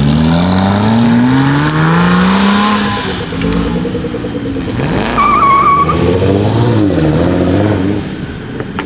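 A car's engine revving hard as it accelerates away, its pitch climbing and dropping back several times through the gears. About five seconds in, a brief high wavering squeal is heard, then the engine revs rise and fall again.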